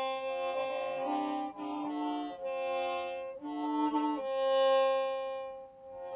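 Hmong qeej, a free-reed bamboo mouth organ, played with several pipes sounding at once in shifting chords, the notes changing about every half second, and a longer, louder chord held in the second half.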